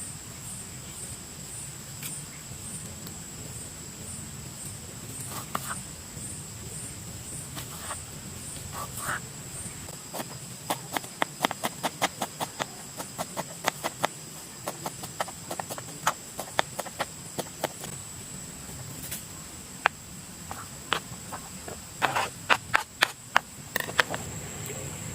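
A steady high-pitched insect drone, with runs of sharp light clicks and knocks in the middle and again near the end.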